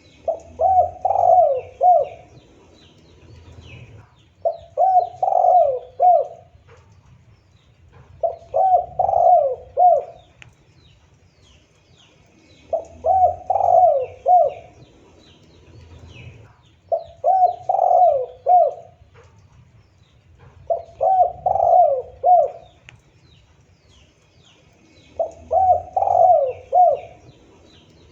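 Spotted dove cooing: seven repeated phrases of several quick, bending coo notes, one phrase about every four seconds. Faint high chirps of small birds sound in the background.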